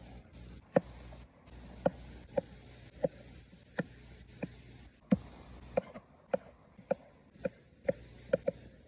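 Repeated chopping of food on a cutting board, about fourteen sharp knocks at roughly one or two a second, quickening into a quick double knock near the end.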